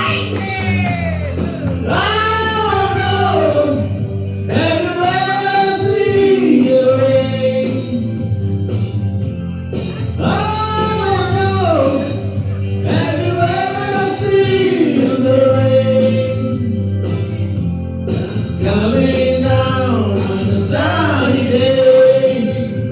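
Male voice singing a song over instrumental backing, in sung phrases a few seconds long with short gaps between them.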